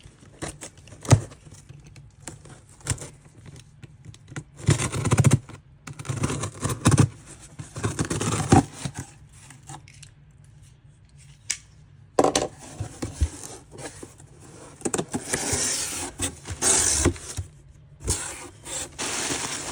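A shipping parcel being unpacked by hand: packing materials rustling and scraping in irregular bursts, with sharp clicks and taps.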